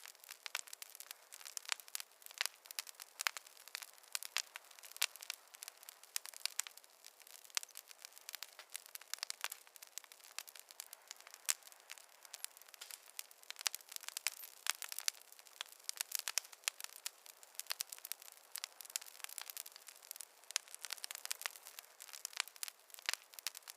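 Fire in a fireplace crackling: a dense, irregular run of small pops and snaps.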